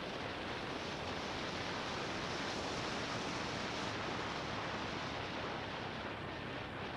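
Wind rushing over the action camera's microphone on a moving motorbike, a steady hiss with the bike's engine faintly running underneath.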